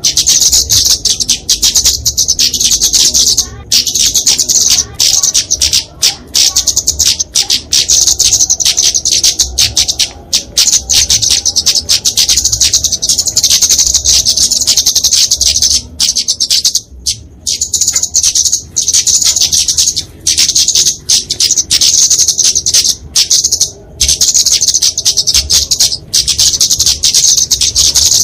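Flowerpecker (kemade) calling in an agitated 'fighting' mode: a rapid, continuous stream of thin, high-pitched chips and ticks, broken by a few brief pauses.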